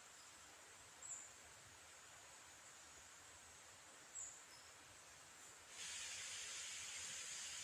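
Faint steady outdoor hiss with two brief high chirps, about a second in and about four seconds in; near six seconds a louder, brighter hiss sets in and holds.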